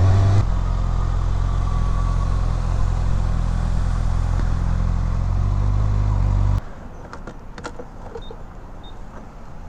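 Kawasaki Ninja ZX-6R's inline-four engine idling steadily, then switched off about six and a half seconds in, followed by a few faint clicks.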